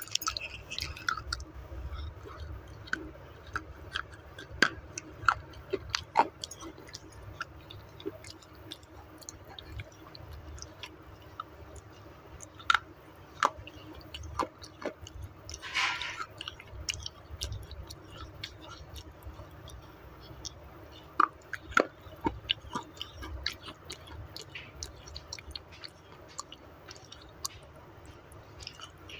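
Close-miked chewing and crunching of clay, with many sharp crackles and clicks scattered through; one longer, louder crunch about halfway through.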